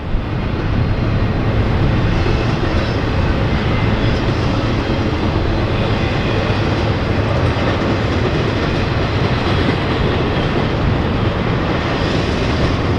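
Norfolk Southern freight train's cars rolling past on the track, a steady loud rumble of wheels on rail, the train gaining speed again after slowing.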